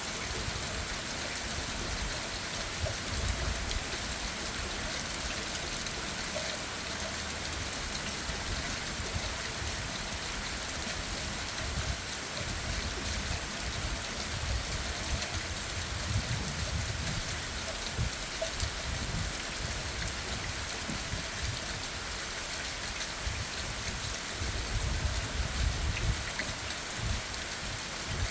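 Steady rain falling on leaves and the ground, an even tapping hiss, with a few low rumbles swelling and fading.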